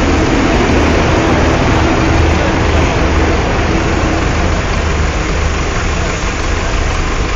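Vehicle engine idling steadily, a continuous low rumble under a broad noise.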